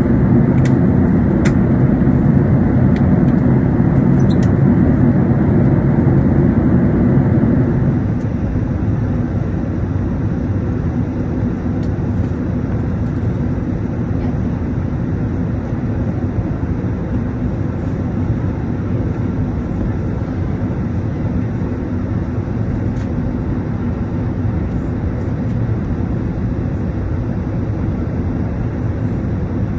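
Steady airliner cabin noise inside an Airbus A380, a broad rush of engines and airflow heard from a window seat. It drops noticeably in level about eight seconds in, then holds steady.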